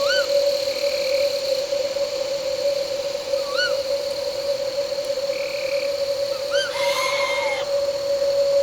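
Owl giving a short rising-and-falling call about every three seconds, with a longer call ending in a downward slide about seven seconds in, over a steady drone of crickets and night insects.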